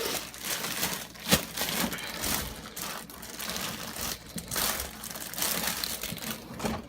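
Plastic bread bags crinkling and rustling as they are handled and packed into a fridge drawer, with one sharp knock about a second and a half in.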